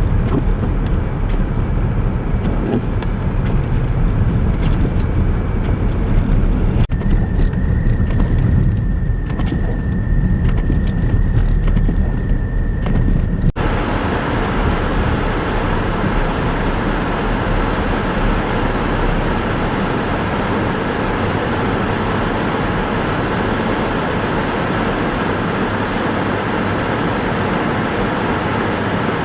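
Heavy snow-clearing vehicles running, in three shots that change abruptly about seven and fourteen seconds in: first a deep engine rumble, and over the last half a steady, dense roar with a high whine.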